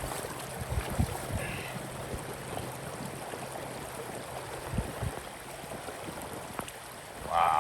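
River water running steadily, with a few low knocks.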